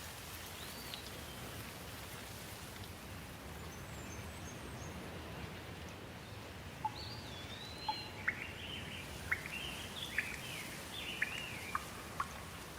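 Steady hiss of falling rain. From about seven seconds in, birds join with a quick series of short chirps and whistled notes.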